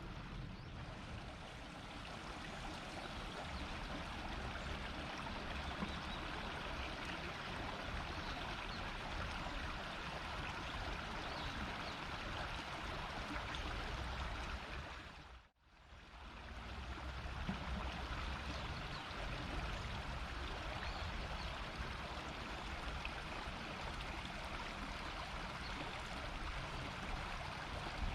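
River water murmuring: a steady rush of flowing water. It dips away for a moment about halfway through and comes straight back.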